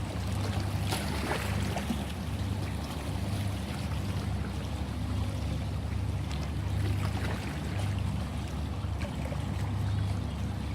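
Sea waves washing and splashing over a steady low rumble that swells and eases every second or so.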